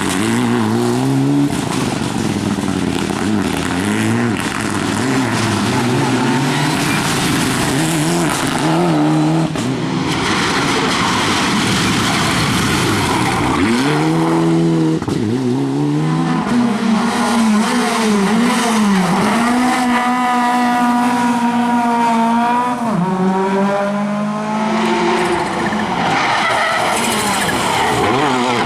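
Rally cars at full race pace, their engines revving hard with the pitch repeatedly climbing and dropping back at gear changes and lifts, one held at a steady high note for a few seconds past the middle. Tyre noise and skidding under the engines.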